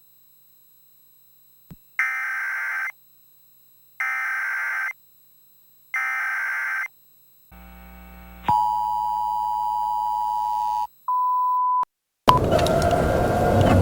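Electronic emergency-broadcast alert tones: three warbling one-second bursts spaced a second apart, then a steady alert tone for about two seconds, then a short single beep. Loud noisy outdoor sound breaks in near the end.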